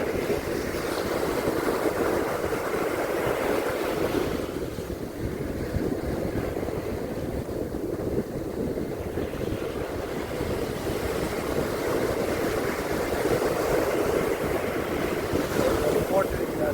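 Waves breaking and washing on a beach in a continuous rush that swells and eases, with wind buffeting the microphone.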